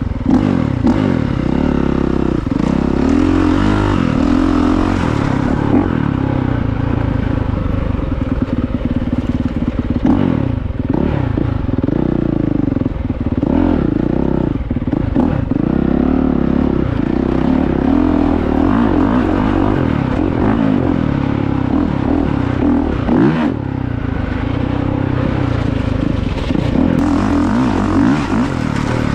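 Honda CRF450R's single-cylinder four-stroke engine being ridden hard off-road, its pitch rising and falling over and over as the throttle is opened and shut.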